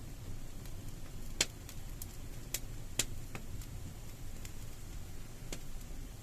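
Campfire crackling inside a cave: a steady low rumble of flames with scattered sharp pops, the loudest about a second and a half in and again at three seconds.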